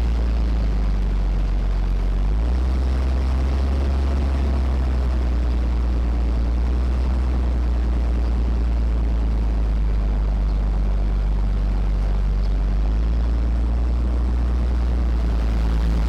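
Cummins diesel engine of a heavy wrecker truck running steadily while driving, a deep drone whose note changes about two and a half seconds in and again about thirteen seconds in.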